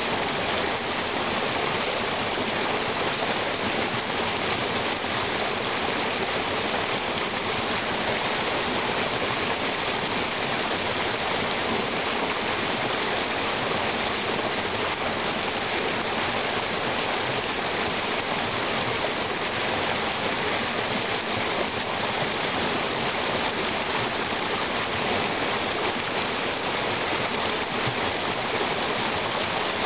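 Spring meltwater pouring over a waterfall, a steady, even rush of water with no break.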